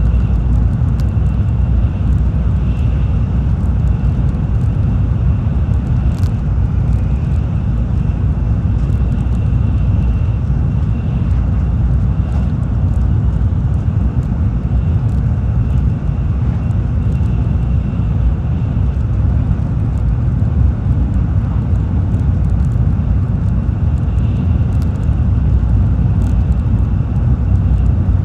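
Tokaido Shinkansen train heard from inside the passenger cabin while running at speed: a steady low rumble with a faint high whine and a few light ticks.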